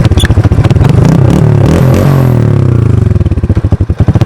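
A small engine running close by, with a fast even beat and a pitch that rises and falls as it speeds up and slows.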